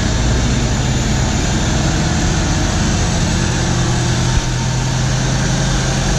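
Diesel engine of a Euro 4 truck with an aftermarket racing exhaust, running steadily under way, with a dense rush of road and wind noise over its low drone.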